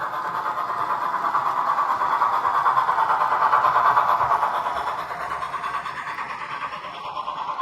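O gauge Dapol 14xx 0-4-2T tank engine model, converted to three-rail with a Blunami decoder, running along the track. It grows louder toward the middle and then fades, as it passes by and moves away.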